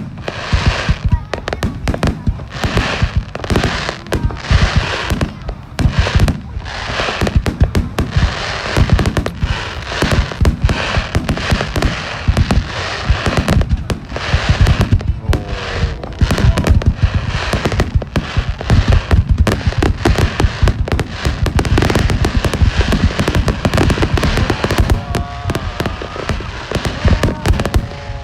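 Large aerial firework display in a continuous barrage: shells bursting one on top of another in rapid succession, deep booms mixed with crackling, with no pause.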